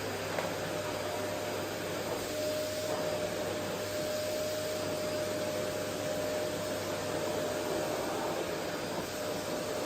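Vacuum cleaner running steadily: a constant rush of air with a steady motor whine held on one pitch.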